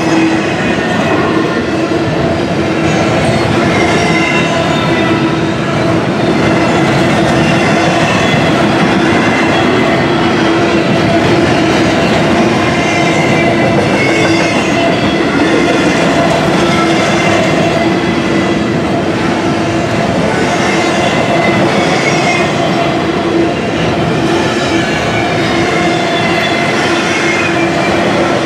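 Intermodal container train's cars rolling past, steel wheels on rail with a steady squealing ring held through the pass and a faint regular clatter.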